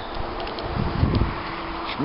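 Wind buffeting the microphone outdoors: an uneven, gusty low rush over a steady hiss, strongest about a second in.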